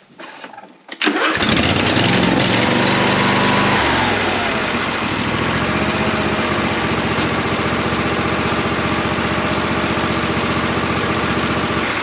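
Briggs & Stratton two-cylinder engine on a John Deere LA165 lawn tractor cranking briefly on its electric starter, catching about a second in, running fast, then settling to a steady lower speed about four seconds in. It starts only because the flywheel was first pushed back past the compression stroke, a workaround for valve clearance that has gone loose so the automatic compression release no longer lets the starter turn the engine over.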